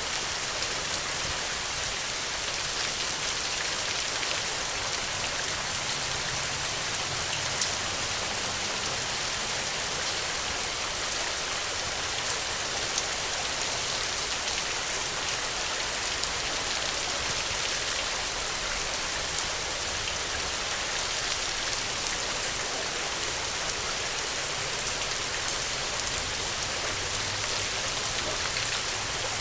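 Steady rain falling, a dense even hiss of drops hitting surfaces, with now and then a single louder drop standing out.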